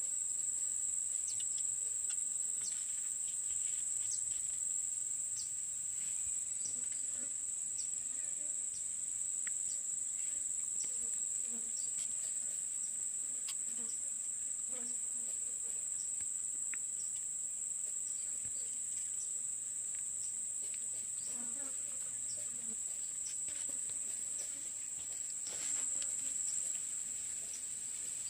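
Steady, high-pitched insect chorus, like crickets, with faint scattered ticks.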